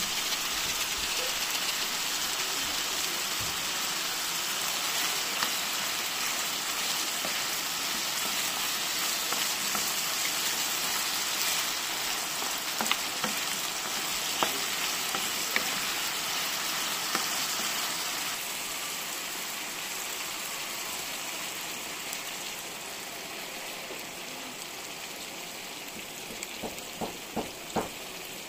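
Calamari and potato cubes sizzling in hot oil in a frying pan: a steady hiss that eases a little in the second half. A few taps of the stirring wooden spoon come through, with a short run of sharper taps near the end.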